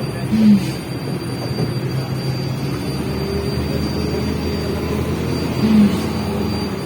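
Steady engine and road noise inside a MAZ-105 city bus under way, with two short squeaks, one just after the start and one about five seconds later.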